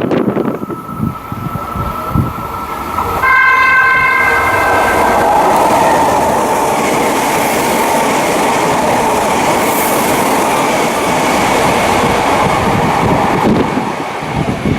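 Meitetsu 2000 series μSKY eight-car train sounding a short chord on its horn about three seconds in, then passing at speed. The horn gives way to a steady loud rush of wheels on rail and air for about ten seconds before it fades.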